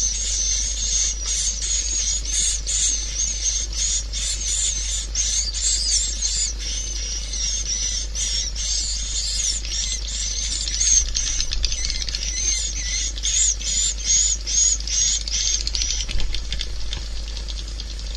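Swiftlet calls: a dense run of high, rapid twittering chirps, several a second, over a steady low hum. The chirping breaks off about two seconds before the end.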